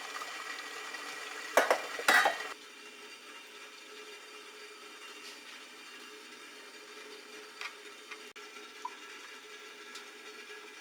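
Cooking in a home kitchen: two loud clatters of cookware about a second and a half in, then a soft, steady sizzle of food in a pan with a few light clicks.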